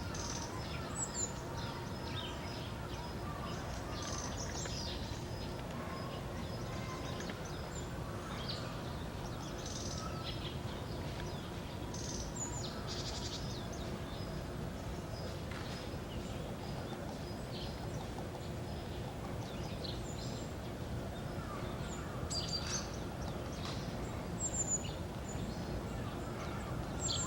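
Short, high calls and chirps from a small flycatcher (オジロビタキ) and other small birds, scattered irregularly, over a steady low rumble of distant city noise.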